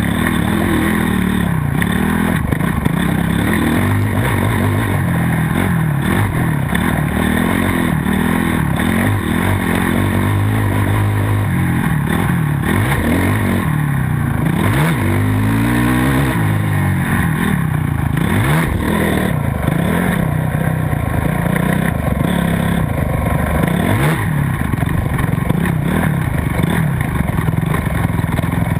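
Several motocross bike engines revving hard, their pitch rising and falling over and over with throttle and gear changes.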